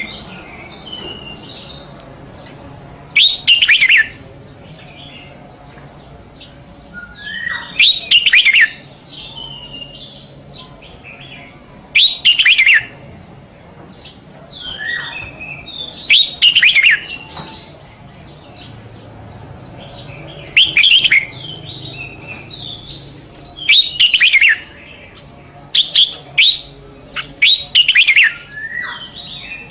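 Red-whiskered bulbul singing: short, loud song phrases every few seconds, coming closer together near the end, with softer chirps in between.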